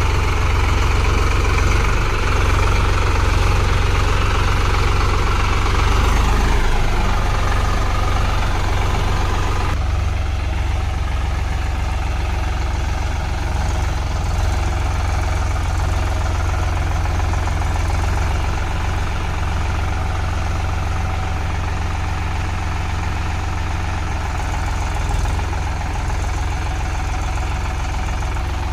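Solis 5015 tractor's diesel engine running steadily, its pitch dropping a little about six seconds in and shifting again near ten seconds.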